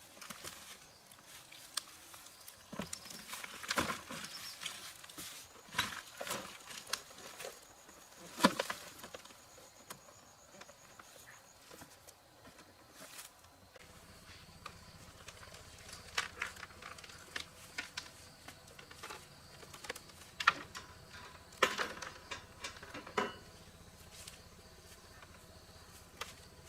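Irregular clicks, taps and knocks of hand tools and metal parts being handled while an old air conditioner fan is taken apart. A faint steady hum comes in about halfway through.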